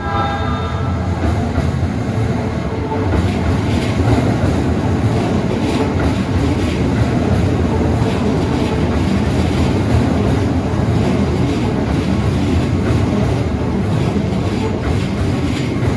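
Keikyu electric train passing close by, its running noise growing louder about three seconds in, with wheels clattering over the rail joints.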